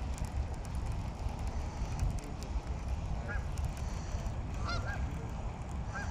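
A few short bird calls, each a quick rise and fall in pitch, scattered through the second half, over a steady low wind rumble on the microphone.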